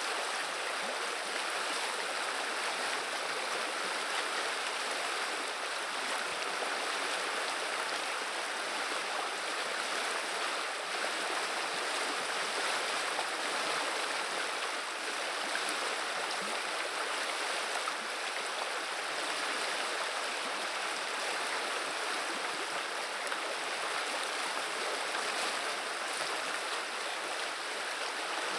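River water running and babbling: a steady, even rush of flowing water.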